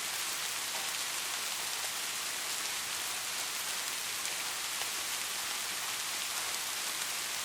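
Steady soft rainfall, an even hiss with faint scattered drop ticks.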